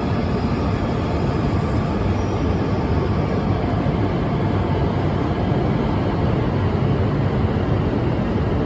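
E5 series Shinkansen train running: a steady, even running noise, strongest in the low end, with no change in level.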